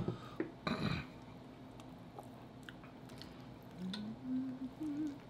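Close-miked eating sounds of soft, cheesy spinach casserole: chewing and mouth clicks, with a short noisy burst about a second in. Near the end a hummed "mmm" rises in pitch.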